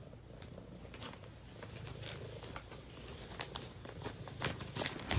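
Faint scattered clicks and rustles in a small room, growing busier toward the end.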